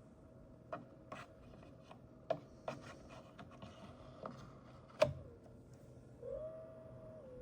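Lian Li Hydroshift 2 LCD-S AIO pump whining with a steady tone, which the owner blames on the pump cap. Several sharp clicks and knocks sound over it, the loudest about five seconds in; the whine drops in pitch after that knock, rises again for about a second, then settles lower.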